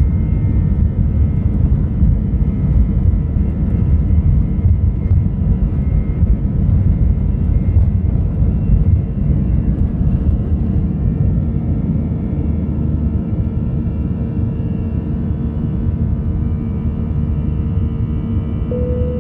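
Airbus A319 airliner's jet engines running with a steady, loud low rumble and a faint steady whine over it, easing slightly about halfway through. A brief steady tone sounds near the end.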